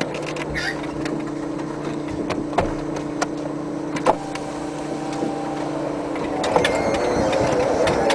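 Car engine running at low speed, heard from inside the car, a steady low hum with a couple of sharp clicks; near the end a wavering, higher engine note comes in.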